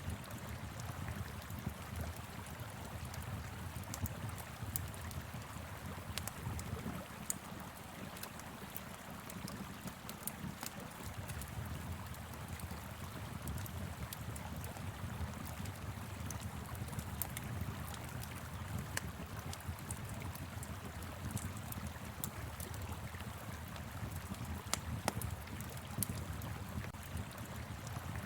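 Wood fire crackling with scattered sharp pops, over the steady rush of a flowing river and a low rumble of wind.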